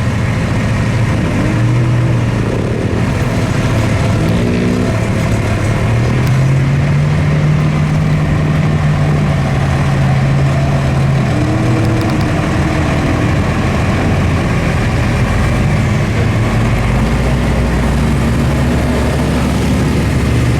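Mud truck engines running steadily and loudly, with the engine note rising and falling slowly as they are revved.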